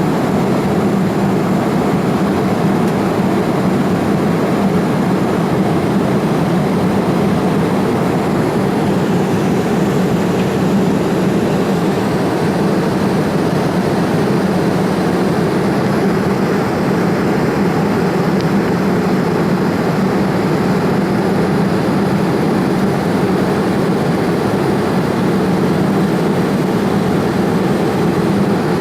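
Steady drone of engine and airflow noise inside the cabin of a Boeing 787 Dreamliner flying above the clouds, with a low hum running through it.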